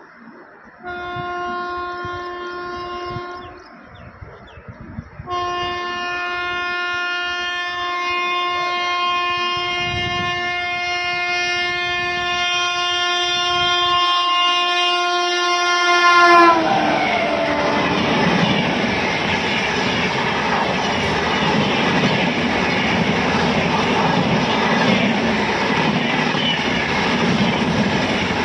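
Indian Railways train locomotive horn: a blast of about two seconds, then a long blast held for about eleven seconds that drops in pitch as the locomotive passes. The train then rushes by, its wheels clattering over the rail joints.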